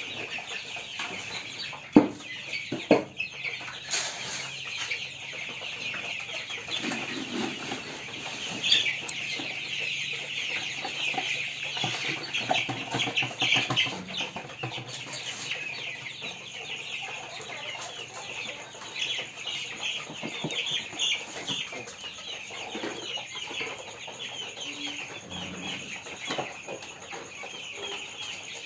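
A house full of three-week-old broiler chicks peeping all together at feeding time, a dense, steady chorus of many overlapping short high cheeps. Two sharp knocks come about two and three seconds in.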